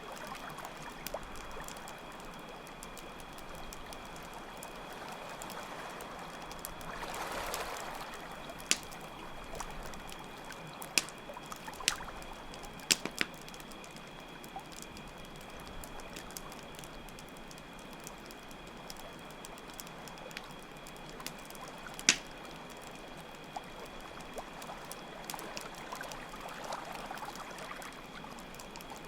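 Mixed nature ambience: a steady trickling stream of water, with a swell of water sound around seven seconds in, crickets chirping in a steady high trill, and campfire crackles popping every few seconds, the loudest pop about 22 seconds in.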